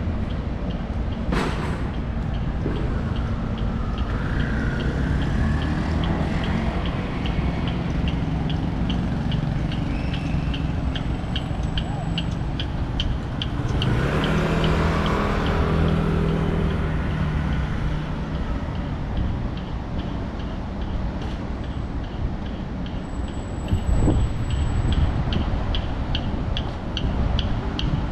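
Street traffic: cars and heavier vehicles running and passing, with one louder engine going by about halfway through. A steady high-pitched ticking, about two a second, runs under it.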